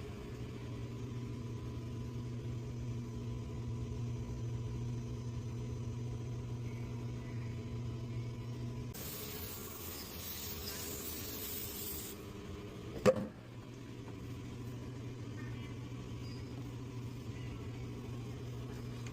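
Honda Pilot's 3.5-litre V6 idling steadily. About nine seconds in, a loud hiss runs for about three seconds, followed by a single sharp knock, and then the idle goes on.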